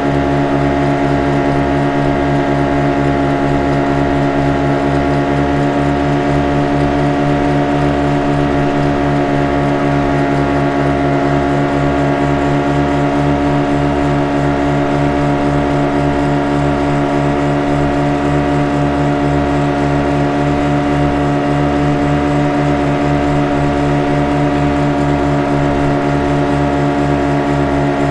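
Speed boat engine running at a steady pitch: a constant drone with a fast, even low throb.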